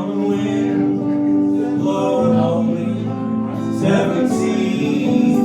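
Live acoustic folk music: strummed acoustic guitar under a held melody line, with notes changing about every second.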